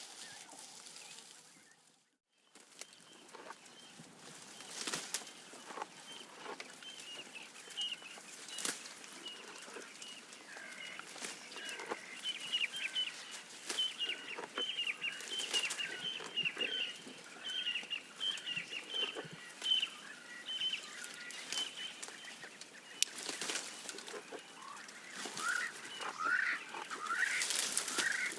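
Birds calling over and over in short chirps, with rising calls near the end, over scattered clicks and rustles of a giraffe browsing on leaves. The sound breaks off briefly about two seconds in.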